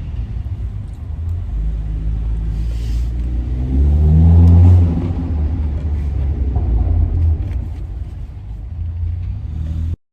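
Car engine with a muffler-deleted exhaust running with a low rumble, revving up about four seconds in to its loudest point, then easing back to a steady cruise.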